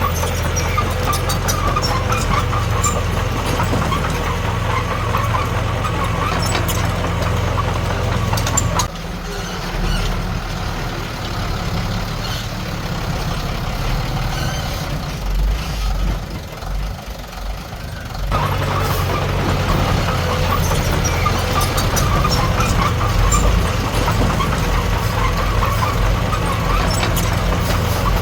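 Heavy diesel engine running steadily with a deep hum. About nine seconds in it drops to a quieter, lower note for several seconds, then comes back up to its working level.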